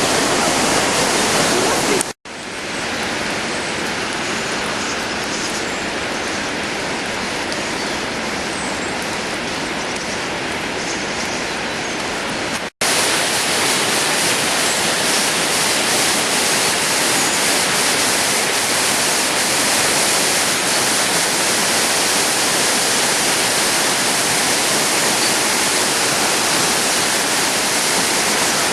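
Floodwater rushing in a steady, loud roar. It is broken twice by sudden dropouts, about two seconds in and again near the middle, where the recording cuts.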